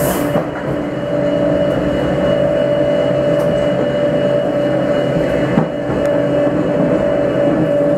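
Electric railcar of the Grütschalp–Mürren line running along the track: a steady motor hum over the rumble of wheels on rails, with a single knock about five and a half seconds in.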